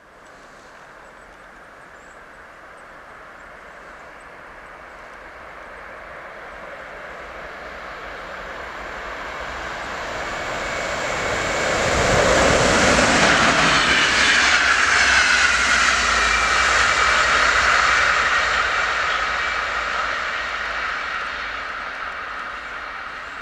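Electric locomotive-hauled passenger train on an electrified main line running fast past the listener: a rush of wheels and air builds as it approaches, is loud for several seconds as it passes close, then fades as it recedes. A whine drops in pitch as the train goes by.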